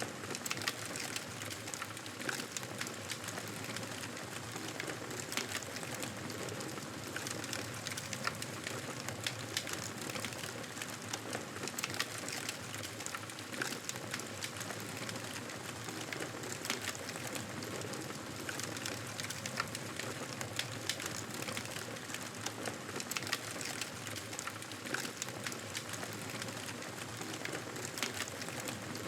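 Wood fire crackling steadily in a fireplace, a constant hiss broken by many small, irregular pops and snaps.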